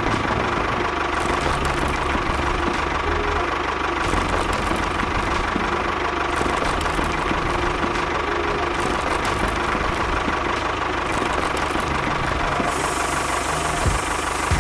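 Engine running steadily with a rough, knocking idle, like a small tractor engine; a hiss joins it near the end.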